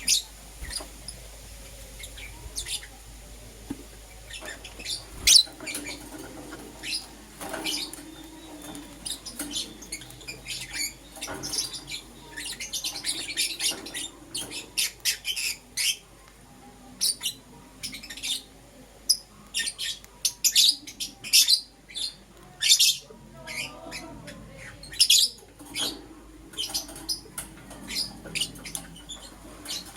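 Lovebirds chirping and giving short, sharp squawks in quick irregular runs, busiest in the middle.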